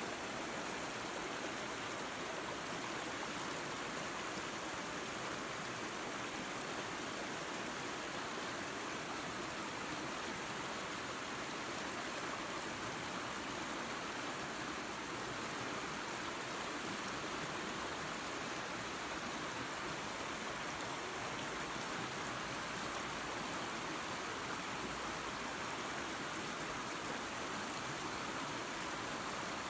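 Small waterfall and creek running water: a steady, even rush of flowing water with no breaks.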